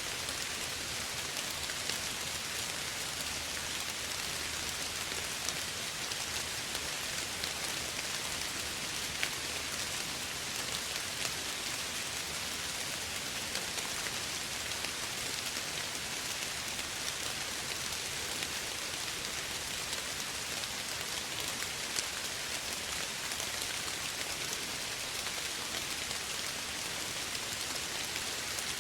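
Steady soft rain falling, a continuous hiss with scattered drops pattering on a surface.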